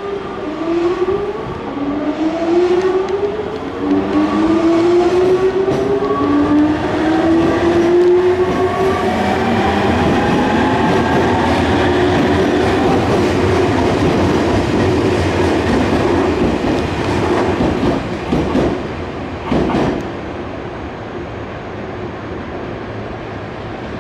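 Nankai electric train pulling out and accelerating: its traction motors whine, rising in pitch in repeated steps, over growing wheel and running noise. A couple of sharp rail-joint clacks come near the end, then the train's sound drops away to a steady lower hum.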